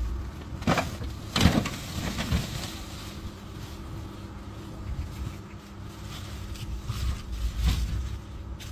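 A few sharp knocks or thumps, about a second and a half in and again near the end, over a steady low rumble.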